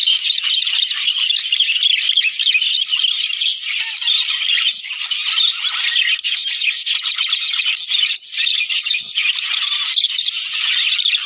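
A flock of budgerigars chattering and warbling together: a dense, unbroken chorus of many short, overlapping high chirps.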